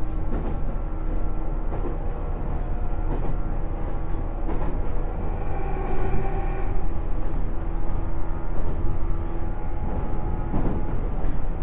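JR 107 series electric train running at speed, heard from inside the car: a steady motor hum at several pitches over a rumble, with a few knocks from the wheels over the track.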